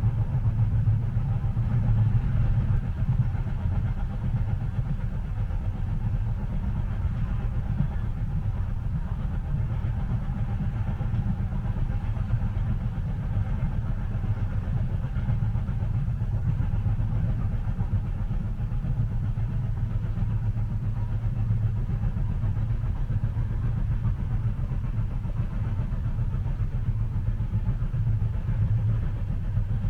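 Steady low rumble of a train running, heard from inside the passenger cabin, even and unbroken.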